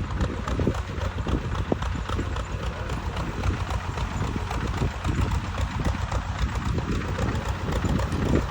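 Tractor engine running steadily with a spray pump, a low rumble under a fast, even clatter of knocks.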